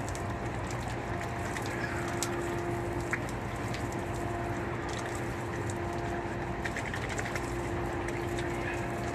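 Falling water: a steady rush with scattered small drip-like ticks, over a steady hum that cuts out twice for about a second.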